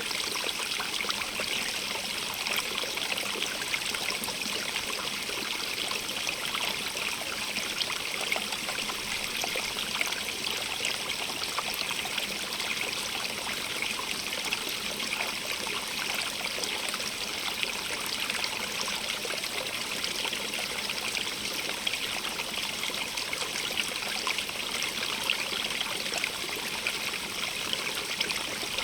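Stream running steadily over stones, a constant splashing trickle with fine bubbling detail.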